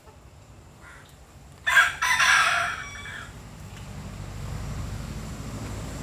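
A loud bird call about two seconds in: a short first note, then a longer harsh note that fades out, about a second and a half in all.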